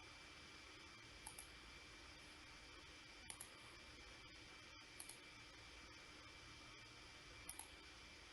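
Faint computer mouse clicks: four short pairs of clicks, spaced about two seconds apart, over a quiet steady hiss and faint hum.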